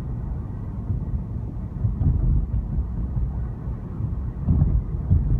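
Car driving: a steady low rumble of engine and tyres heard from inside the cabin, swelling a little louder a couple of times.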